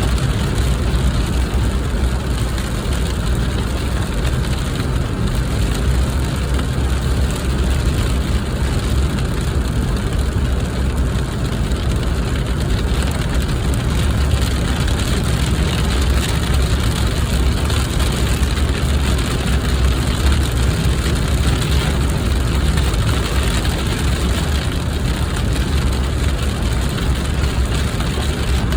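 Steady noise of a car heard from inside: a constant low engine and road rumble under a dense, even hiss.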